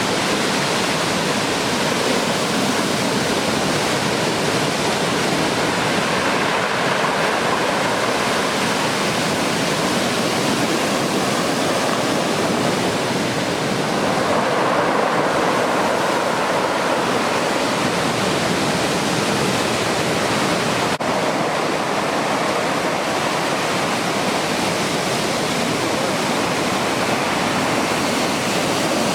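Heavy surf from a large typhoon swell closing out on the beach: a continuous loud wash of breaking waves that swells up a little past the middle.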